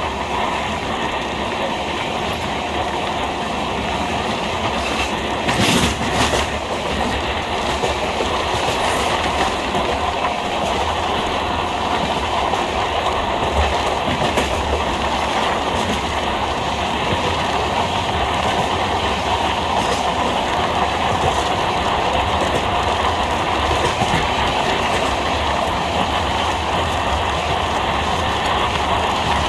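Passenger express train running at speed, heard from aboard in the open air at the coach side: steady rumble and clickety-clack of the coaches' wheels on the rails. There is a brief sharp clatter about six seconds in.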